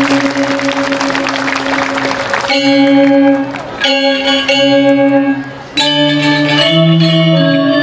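Balinese gamelan playing a tabuh kreasi, a newly composed instrumental piece. It opens with a dense, shimmering passage over held ringing tones. From about two and a half seconds in come loud accented strikes on bronze metallophones with long ringing tones, which break off briefly twice before the melody moves on.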